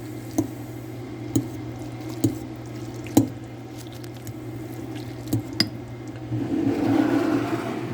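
Wet squishing of ramen noodles and broth being stirred in a bowl, with a utensil clinking against the bowl about once a second at first and a louder swishing stretch near the end.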